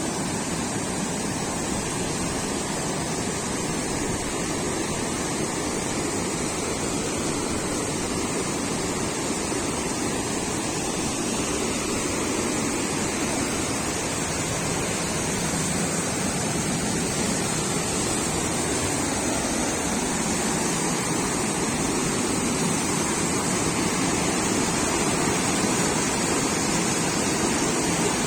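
Steady, unbroken rush of fast-flowing water, growing slightly louder near the end.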